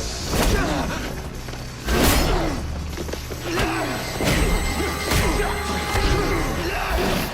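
Action-scene soundtrack: dramatic music under a run of sound-effect whooshes and heavy impacts, about six in all, the loudest about two seconds in.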